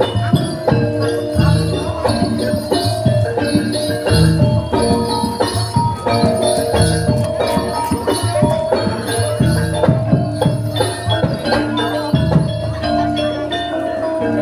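Live Javanese folk performance music: mallet percussion ringing steady notes with jingling bells, over a regular low drum beat.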